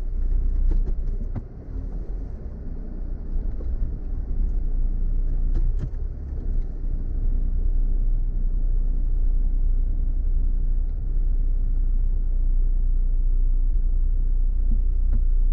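Vehicle driving slowly over a rough dirt track, a steady low rumble of engine and tyres with a few brief knocks and rattles from the bumps.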